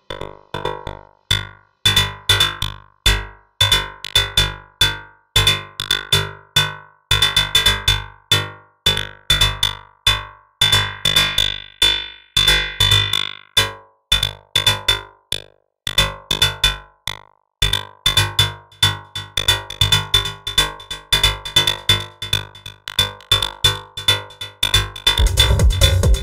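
Techno loop on synthesizer and drum machine: short, staccato sequenced hits in a choppy, gapped pattern over a steady high tone, with a fuller, continuous beat and heavy bass coming in near the end.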